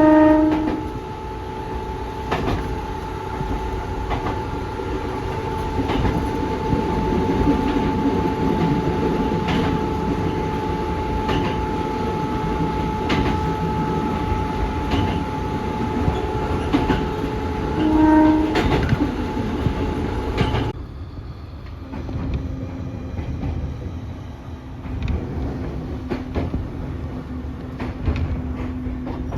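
Fujikyu Railway train running along the line: steady rumble with wheels clicking over rail joints and a steady hum. A short horn blast sounds at the very start and again about eighteen seconds in. About twenty-one seconds in the sound cuts abruptly to a quieter run with a low hum.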